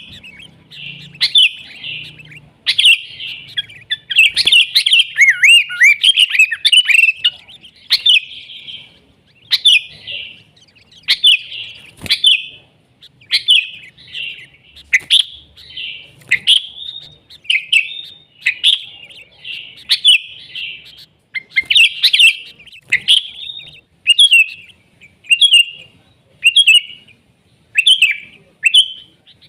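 Sooty-headed bulbul (kutilang) singing loudly: a dense run of chattering, warbling phrases for the first several seconds, then short whistled phrases repeated about once a second.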